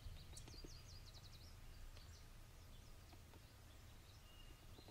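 Faint songbird song: a quick run of high chirping notes about half a second in and a thin high whistle near the end, over a low, steady background rumble.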